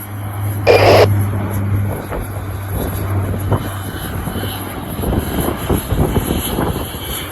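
Airliner engines running as the plane passes, mixed with strong wind buffeting the microphone. A short loud burst about a second in, then choppy, gusty rumbling.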